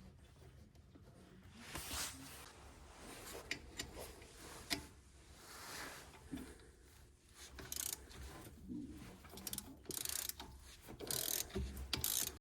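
Intermittent mechanical clicking, rattling and scraping of hand tools being worked.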